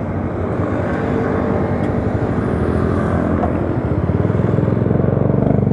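Honda RS125's stock 125 cc single-cylinder four-stroke engine running as the motorcycle rides along, a steady engine note that gets a little louder about four seconds in.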